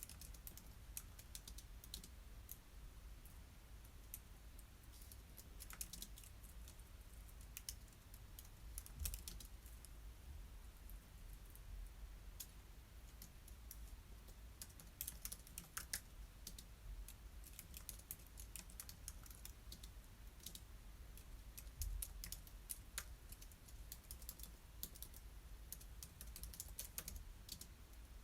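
Quiet typing on a computer keyboard: irregular keystrokes in quick runs with short pauses between, over a faint low hum.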